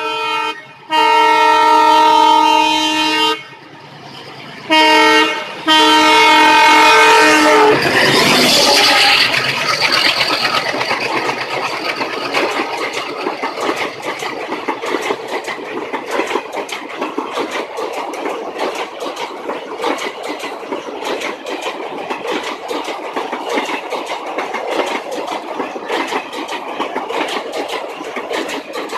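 Indian Railways locomotive horn sounding in four blasts, two short and two long, as the train approaches, then the train rushing past with its wheels clattering steadily over the rail joints.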